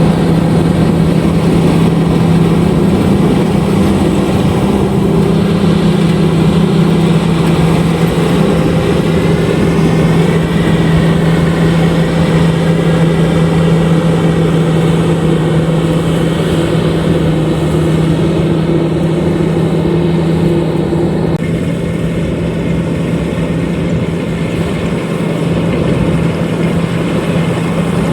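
LOVOL RG130EVO rice combine harvester running steadily under working load, a constant engine drone with a faint wavering whine about ten seconds in. About three-quarters of the way through, the sound turns a little duller.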